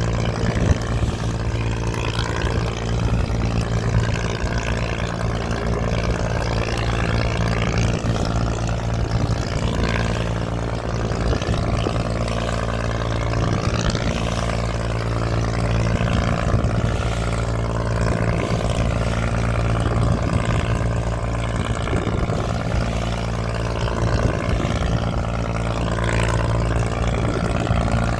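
Boat engine running steadily at an even pace, a constant low drone over the rush of water and wind.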